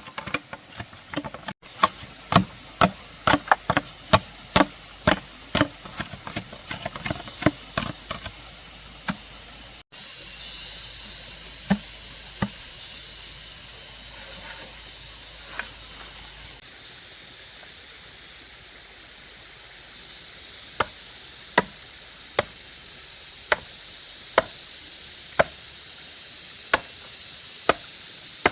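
A run of quick knocks, about three a second. Then, after a cut, food sizzles steadily in a hot pan while a spatula taps against it about once a second.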